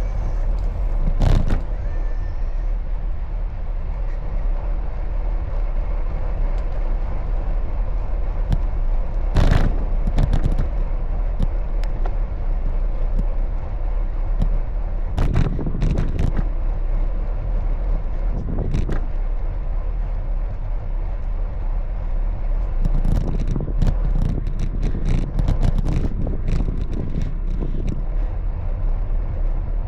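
Steady rumble and road noise recorded from a moving bicycle, with car traffic around, broken by several sharp knocks and rattles, in a cluster near the end.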